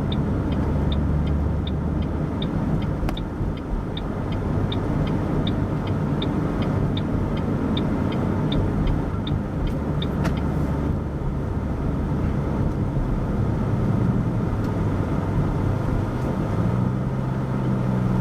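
Steady engine and road noise inside a moving car's cabin, with the turn-signal indicator ticking evenly, about three ticks a second, until about ten seconds in. Near the end the engine settles into a steadier low hum.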